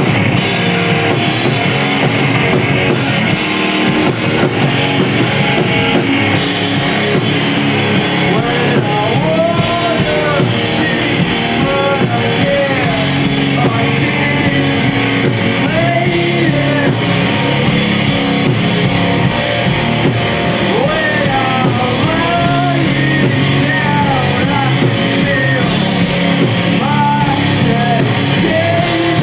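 Rock band playing live, with electric guitars and a drum kit; a singing voice comes in over the band about nine seconds in.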